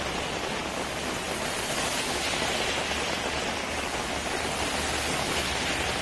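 Heavy rain falling on a wet city road, a steady hiss, with car tyres swishing through the water as traffic passes.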